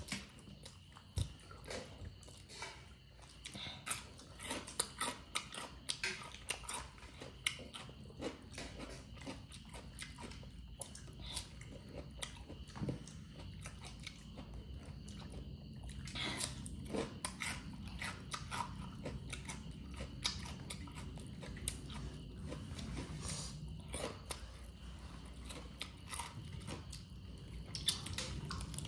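Close-up eating sounds of chicken and cucumber being bitten and chewed, with many short crisp crunches at an uneven pace.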